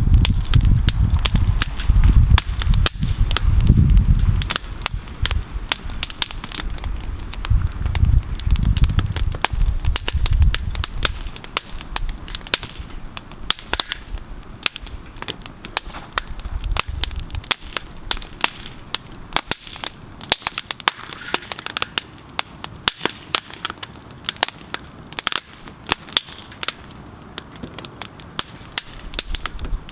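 Wood campfire crackling, with frequent sharp pops and snaps. A low rumble under it during roughly the first ten seconds fades away.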